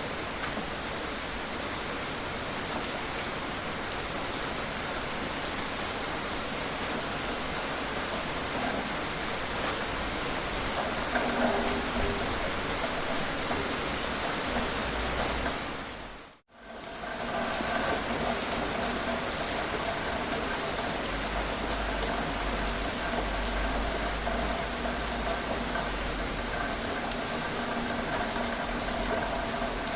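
Gentle rain falling steadily, an even hiss of drops on surfaces. About halfway through it fades out to near nothing for a moment and fades back in.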